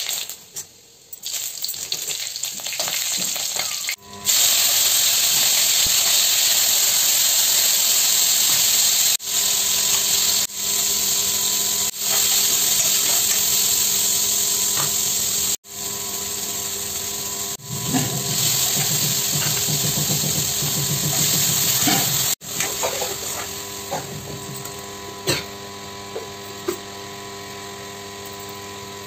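Elephant apple pieces and spices sizzling loudly while frying in hot oil in an iron kadai, stirred with a spatula. A little past two-thirds of the way in the sizzle drops to a quieter simmer with a few light clicks.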